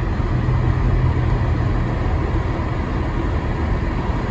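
Steady road and engine noise inside a car's cabin while driving on snow tires over a snow-covered road: a low, even drone with no sharp sounds.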